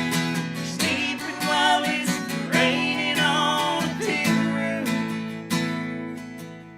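Acoustic guitar strumming a country song, with a sung melody sliding over the first few seconds; the guitar carries on alone and fades toward the end.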